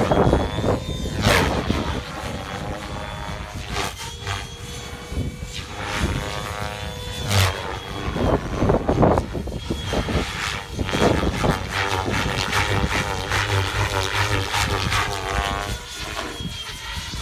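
Electric RC helicopter, a Gaui X7 with a three-blade main rotor, in flight: rotor chop and motor whine rising and falling in pitch as it manoeuvres. Wind buffets the microphone.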